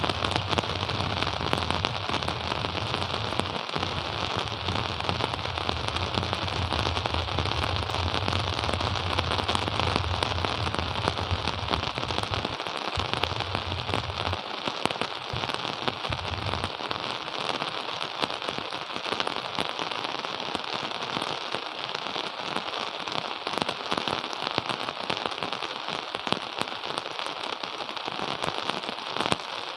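Steady rain falling, a dense patter of small drop ticks over an even hiss. A low hum sits underneath and fades out about halfway through.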